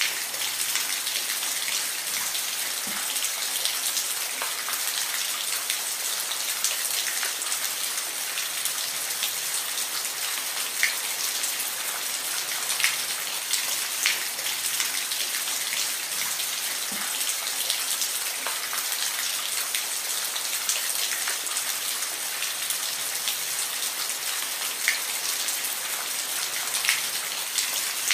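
Steady rain falling, a dense even hiss with scattered sharper drops striking a surface now and then.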